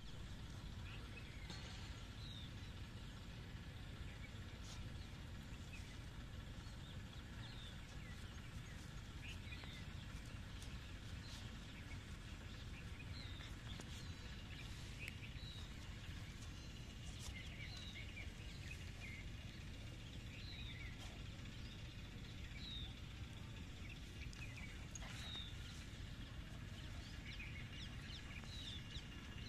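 Birds chirping in short, repeated calls over a steady low background rumble, all fairly faint.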